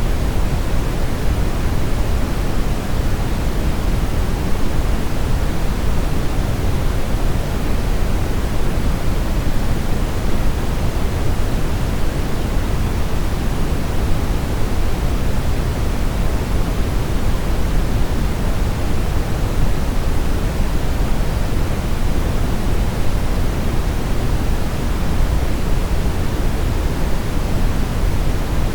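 Brown noise: a steady, even rushing hiss weighted toward the low end, with no changes or events.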